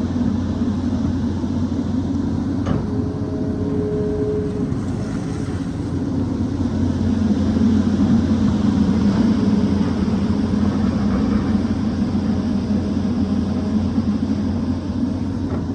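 Excavator's diesel engine running steadily under load, growing louder around the middle, with a brief higher whine and a light click about three seconds in.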